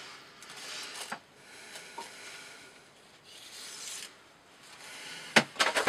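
A D2-steel knife blade slicing repeatedly through thick 20 mm rope, each stroke a rasping swell lasting about a second. A sharp knock near the end.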